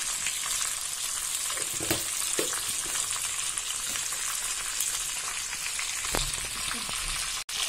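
Olives and spices frying in a steel wok over a gas flame, a steady sizzle, with a brief dropout near the end.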